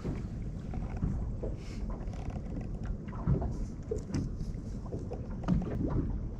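Water splashing and slapping against the hull of a small fishing boat, with a steady low wind rumble on the microphone and irregular short knocks.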